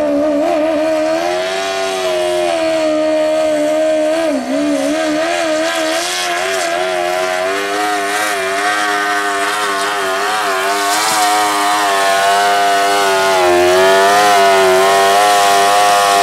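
Modified lawn tractor's engine running at high revs under the load of a pull. Its pitch wavers up and down, with a brief dip about four seconds in, and it gets slightly louder near the end.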